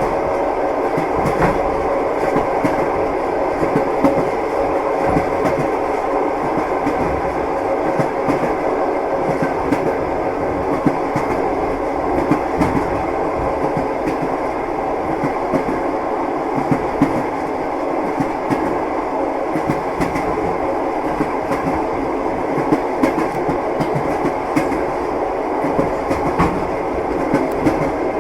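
Moving train carriage heard from inside: a steady rumble of the running train, with the wheels knocking and clattering over the rails at irregular intervals.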